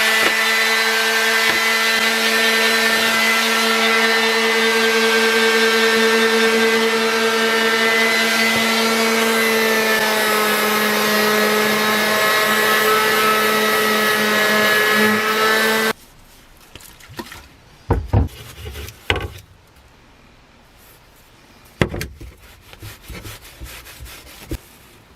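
An electric power tool running steadily and working wood, a motor hum with a rasping, rubbing layer over it, switched off suddenly about two-thirds of the way through. After it stops come quieter handling sounds and a few sharp knocks of wood or tools being set down.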